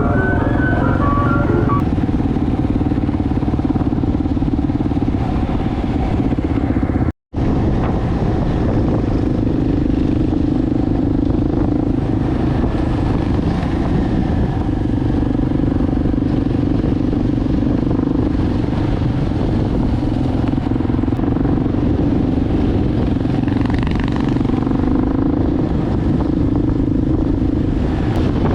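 Enduro motorbike engine running steadily while riding, with road and wind noise, broken by a brief dropout to silence about seven seconds in.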